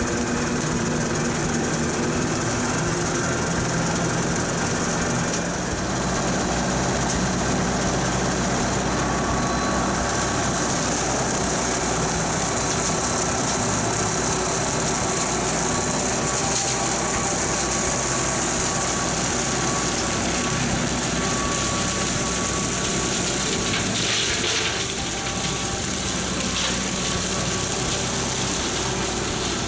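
Kubota L3901 tractor's diesel engine running under PTO load, driving a Land Pride RCR1860 rotary cutter, a steady drone with a high hiss over it. The engine note shifts about five seconds in as the revs come up toward PTO speed.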